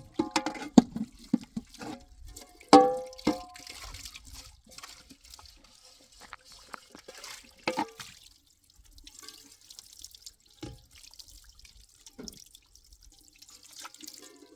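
Water splashing and dripping, with sharp clinks and knocks that ring briefly, crowded into the first few seconds and once more around the middle.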